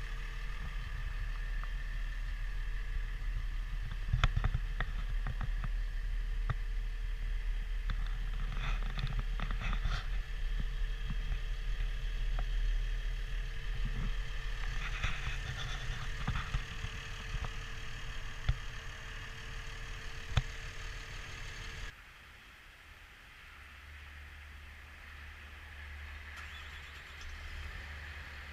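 Caterpillar D6K2 bulldozer's diesel engine running steadily, with scattered sharp knocks. About three quarters of the way through, the sound drops suddenly to a much quieter low hum.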